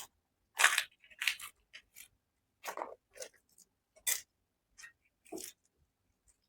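Close-miked eating: about eight short, separate crunching and biting sounds with quiet gaps between, as crisp deep-fried bedai is bitten and chewed. The loudest comes about half a second in.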